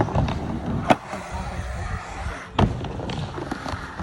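Skateboard rolling with sharp clacks and slams of the board on the ground, the two loudest about one second and two and a half seconds in.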